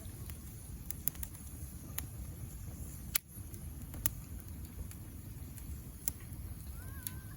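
Campfire burning with a steady low rumble and sharp crackling pops of burning wood, about six snaps, the loudest about three seconds in. A short bird call near the end.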